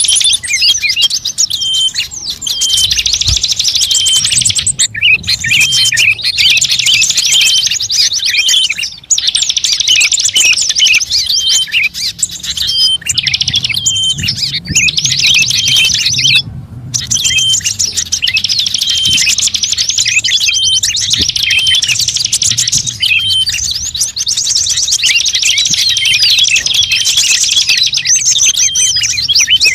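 Loud, rapid, high-pitched songbird chirping and twittering, nearly continuous, with brief breaks about nine and seventeen seconds in. It is a bird-luring call recording.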